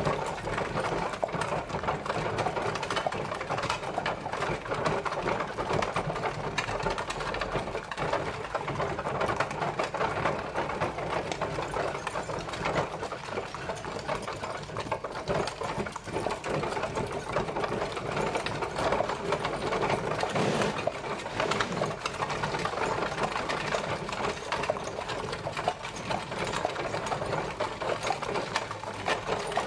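Horse-drawn carriage on the move: a steady, dense rattling clatter.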